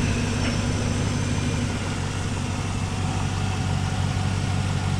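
Chevy Avalanche's 5.3-litre V8 idling steadily through a Flowmaster 50 Series dual exhaust, with a K&N cold air intake.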